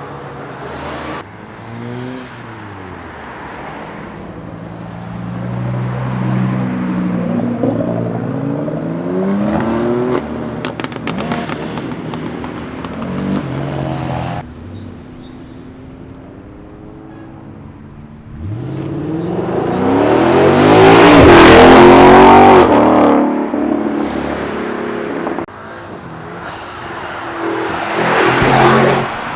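Modified cars accelerating hard past one after another, their engines revving up through the gears. The sound changes abruptly at several points, and the loudest car builds up and goes by about two-thirds of the way through.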